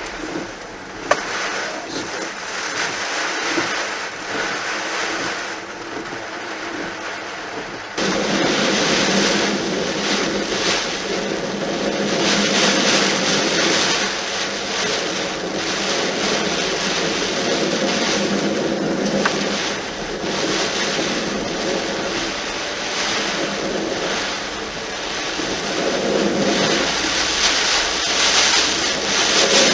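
A car driving on a flooded road, with a steady rush of water spraying and splashing around it. The rush jumps suddenly louder about eight seconds in.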